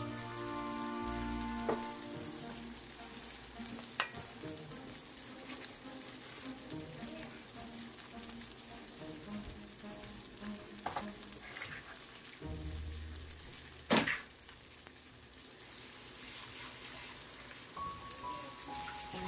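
Slices of Spam sizzling steadily in hot oil in a cast-iron skillet, with a few sharp knocks, the loudest about fourteen seconds in.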